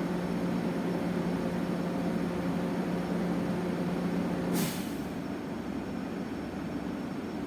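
Electric bus heard from inside the cabin while under way. A steady drone from its machinery cuts off about four and a half seconds in with a short, sharp hiss of released air, leaving quieter running noise.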